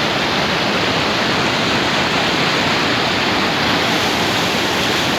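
Waterfall: water pouring over rocks in a steady, loud rush.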